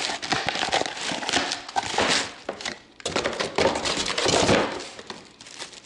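Packing material being handled and pulled apart by hand while a new tool is unpacked, a crackly rustle in two spells with a short break about three seconds in.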